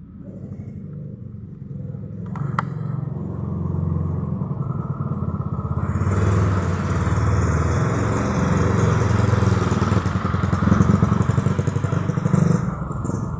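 A motor vehicle's engine passing close by, its rumble growing steadily louder, peaking about eleven seconds in and dropping away near the end. A single sharp click comes about two and a half seconds in.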